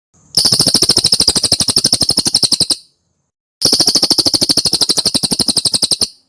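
Cililin songbird trilling: two fast, buzzy trills of evenly repeated notes, about a dozen a second, each lasting about two and a half seconds with a short pause between.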